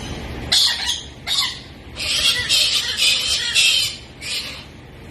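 A parrot screeching in harsh squawks: two short calls, then a longer string of calls about two seconds in, and one more near the end.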